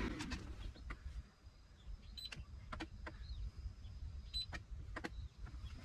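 Scattered light clicks and taps of test equipment being handled over a low hum, with two short high beeps about two seconds apart, typical of a digital multimeter's buttons and probes during output checks.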